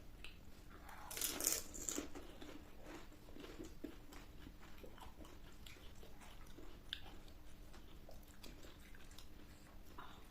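A person biting into crisp snack food with a loud crunch about a second in, then chewing with mouth close to the microphone: a run of small crackles and wet clicks.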